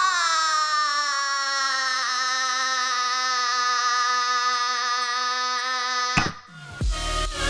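A cartoon girl's voice holding one long drawn-out vocal note for about six seconds, sliding down a little at first and then steady, before cutting off suddenly. Near the end, electronic dance music with heavy bass begins.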